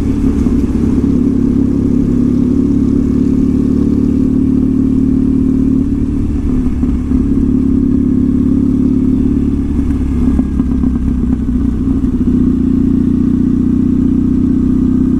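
2014 Triumph Thruxton's air-cooled parallel-twin engine running through a slash-cut exhaust while riding at a steady speed, a steady drone that turns rougher for a few seconds in the middle.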